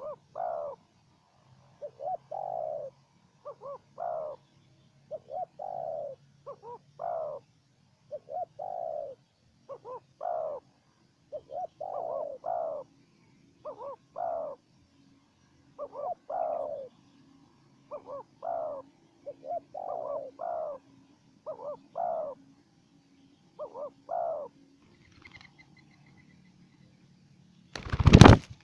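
Spotted doves cooing: a long run of short coo phrases, each note falling in pitch, which stops about 25 seconds in. A single loud knock follows near the end.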